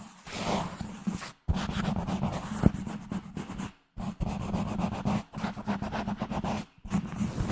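A microphone being scratched gently: rapid scratching strokes in bursts, broken by short pauses about a second and a half in, near four seconds, and near seven seconds.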